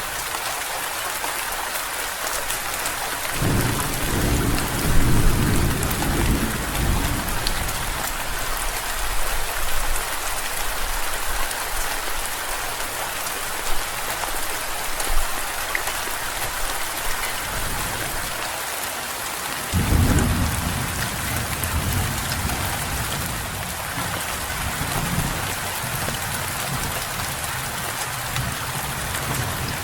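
Steady heavy rain with two rolls of thunder: a low rumble building about three seconds in, and a sharper crack-and-rumble about twenty seconds in that fades out slowly.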